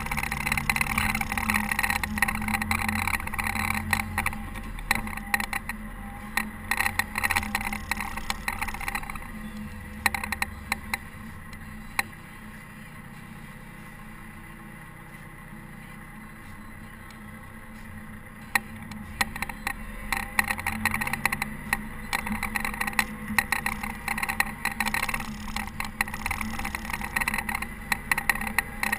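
Caterpillar TH330B telehandler's diesel engine working while plowing snow, with a busy clatter of rattles and scrapes over the drone. About ten seconds in it eases to a quieter, steady running for several seconds, then picks up again with the clatter.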